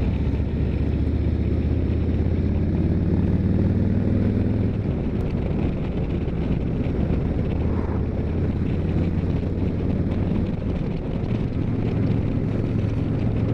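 2021 Harley-Davidson Street Glide's Milwaukee-Eight V-twin engine running on the road under a ride, with wind rushing over the microphone. The engine note eases off about five seconds in and pulls strongly again near the end.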